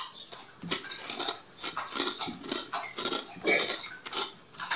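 Close-up chewing of a mouthful of pasta: a run of short, irregular wet mouth noises.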